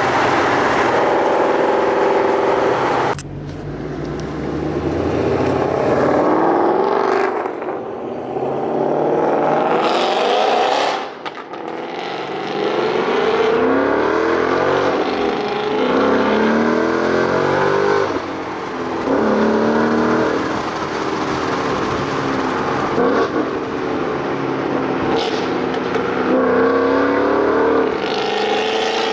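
Ford Mustang GT's 5.0-litre V8 pulling through the gears of its six-speed manual: the engine note climbs in pitch, then drops at each shift, several times over.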